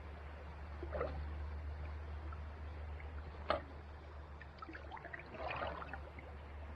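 Kayak paddle dipping into calm sea water: soft splashes and drips about a second in and again near the end, with one sharp tick about halfway, over a steady low hum.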